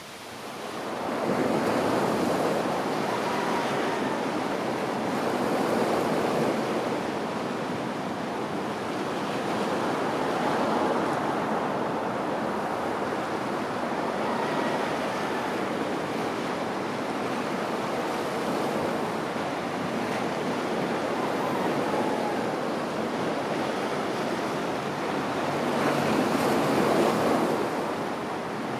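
Ocean surf: waves breaking and washing in, the rush of water swelling and easing every few seconds, with the biggest surge near the end.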